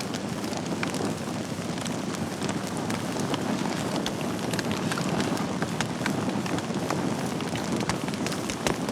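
Wood fire in a fireplace crackling, with frequent sharp pops and snaps over a steady rushing hiss of the flames.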